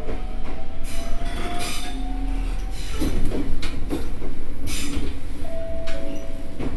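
Electric train running on the rails: a steady low rumble with irregular clacks of the wheels over the track and thin squealing tones, one slowly rising through the first half and two more near the end.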